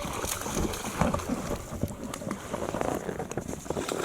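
Irregular water splashing and patter with small knocks, typical of a hooked striped bass thrashing at the surface beside a kayak.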